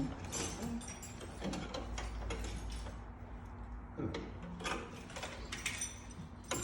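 Hand tools at work on metal hardware: irregular clicks and knocks with short spells of ratchet-like clicking, over a steady low hum.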